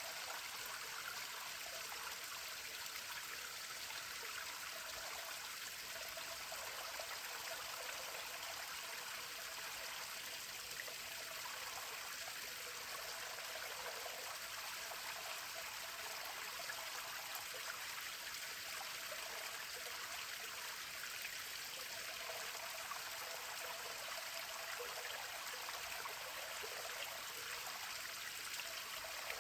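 Small waterfall on a stream, water splashing and running steadily.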